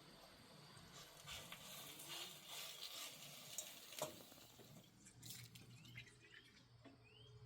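Faint scuffing and rustling with a sharp click about four seconds in, then water dripping, a drop about every half second, near the end.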